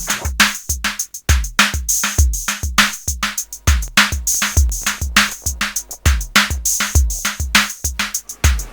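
Electronic music with a drum-machine beat: deep kick drums that drop in pitch about twice a second, with fast ticking percussion and a steady high hiss band, made from sampled workplace sounds.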